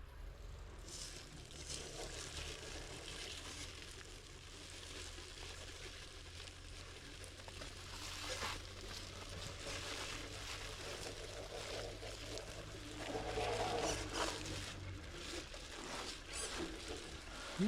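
Water trickling and splashing over rock, with a steady low hum underneath that stops near the end.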